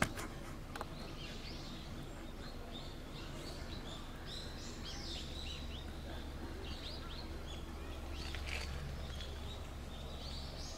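Small birds chirping, many short falling calls in quick succession, over a steady low outdoor rumble. There is a single sharp click at the very start.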